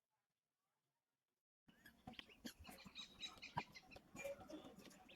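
Dead silence for about a second and a half, then outdoor ambience cuts in suddenly: many short high chirps and calls with scattered clicks, like birdsong.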